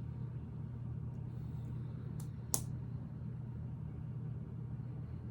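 Small plastic Lego pieces clicking a few times as they are handled and pressed together, the sharpest click about two and a half seconds in, over a steady low hum.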